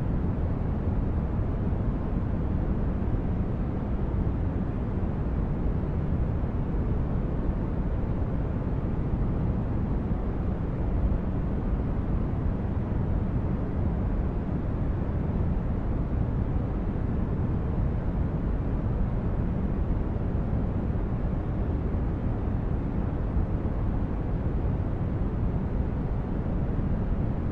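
Steady, deep synthetic noise, weighted toward the low end like a rumble rather than a hiss, unchanging throughout.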